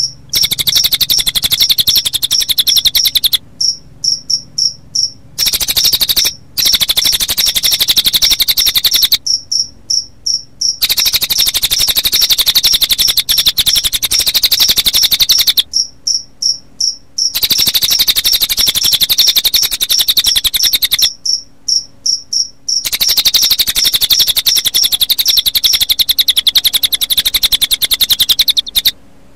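A bird-training recording of cililin bird song mixed with cricket chirping: a loud, fast, high-pitched trill that runs in long bouts of several seconds, broken by short pauses of a second or two, five times through.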